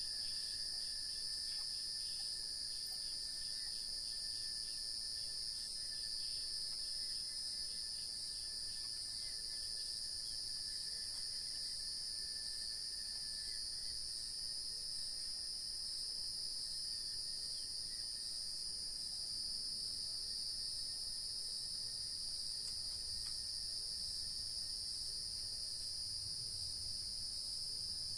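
Steady chorus of crickets and other insects: a continuous high shrill drone with no breaks. A fainter, lower thin tone runs beneath it and fades out about halfway through.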